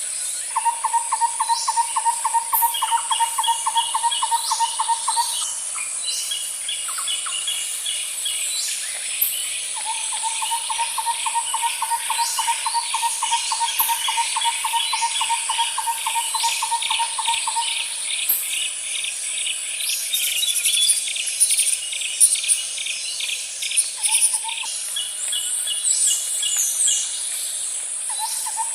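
Nature ambience of birds chirping and calling over a steady high insect drone. A lower, even-pitched trill repeats for several seconds at a time, with a faster, higher pulsed trill running over it.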